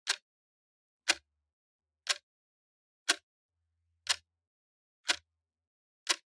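Clock ticking steadily once a second, each tick a sharp click with silence between.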